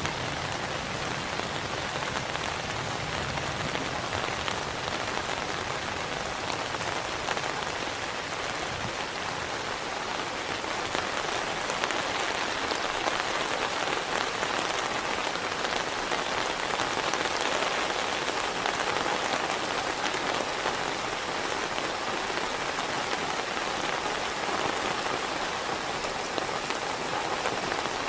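Heavy rain falling steadily on a surface, with scattered single drops ticking through the even hiss.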